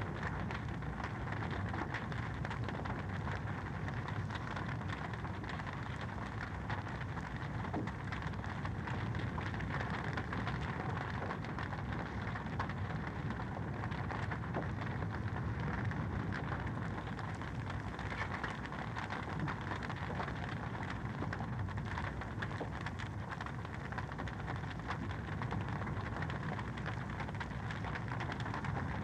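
Wood fire crackling in a fireplace: a steady hiss and low rumble, dotted with many small pops and snaps.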